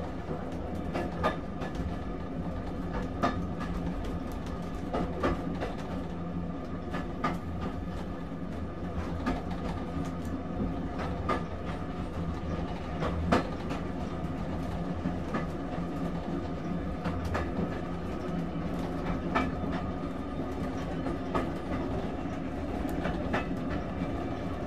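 A train running on rails: a steady rumble with irregular clicks and clacks from the wheels.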